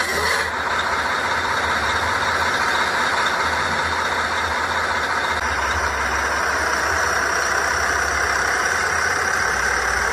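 Truck engine running steadily, a continuous engine noise that shifts slightly in tone about halfway through.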